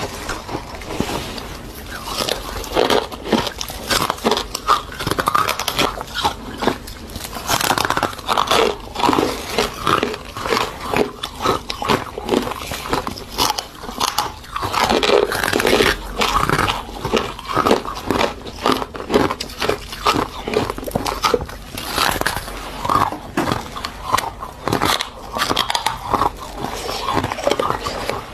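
Close-miked biting and chewing of ice and freezer frost: dense, crackly crunches following one another without a break.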